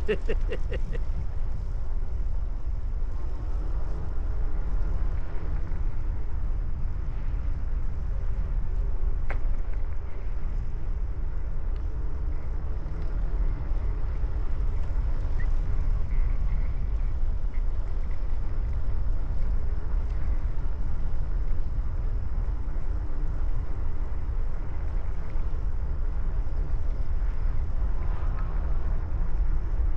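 Steady low wind rumble buffeting the microphone of a rider on a moving bicycle.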